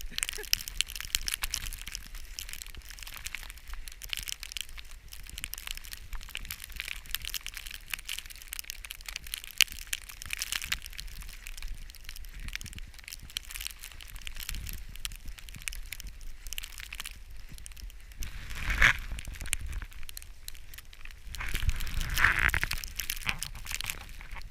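Footsteps crunching through deep snow, a steady irregular run of crunches, with two louder rushes of noise near the end.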